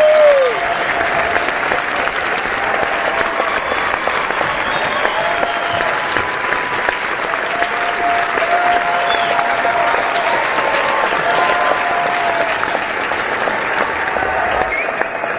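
Large crowd applauding steadily, with short calls from the crowd rising over the clapping now and then.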